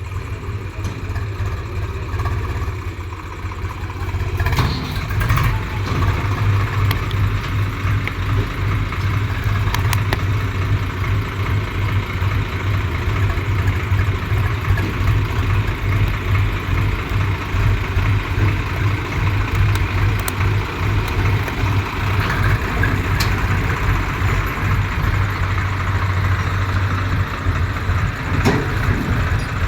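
Tractor engine running steadily with a low, even throb, getting a little louder about five seconds in.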